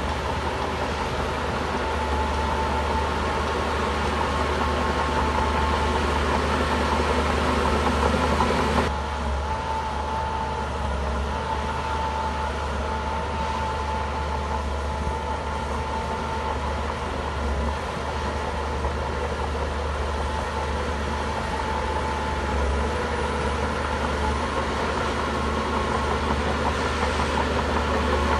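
Shantui bulldozer's diesel engine running steadily, with a steady whine above it. About nine seconds in the sound drops a little and settles.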